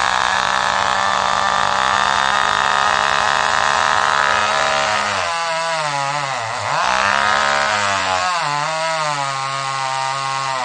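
Chainsaw engine running at high revs in a cut, steady for about five seconds, then its speed dips sharply and wavers lower as it bogs down in the wood.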